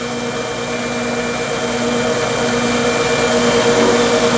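Wood lathe running steadily: a motor hum with a few constant tones, growing slightly louder toward the end. It spins the turned piece while wax is worked in with a cloth.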